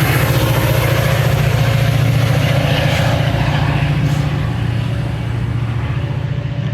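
Diesel locomotive engine running steadily close by: a loud, low, rapidly pulsing drone that eases off slightly in the second half.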